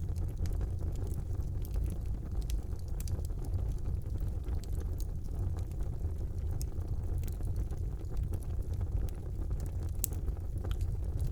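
Wood fire burning in a fireplace: a steady low rumble of flames with scattered sharp crackles and pops, one louder pop about ten seconds in.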